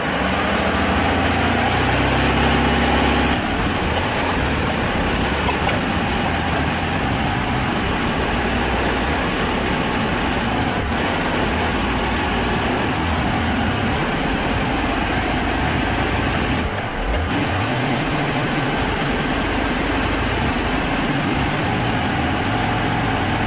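Lexus SC400's engine idling, fully warmed up, while Seafoam is drawn into the intake. It is a little louder for the first three seconds, then steady, with a brief dip about seventeen seconds in.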